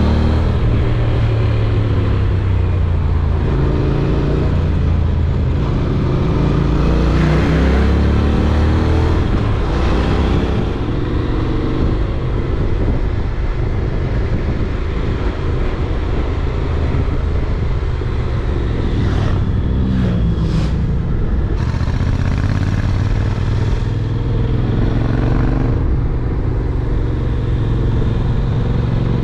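Honda NC750X parallel-twin engine running while riding, its pitch rising and falling several times with throttle and gear changes.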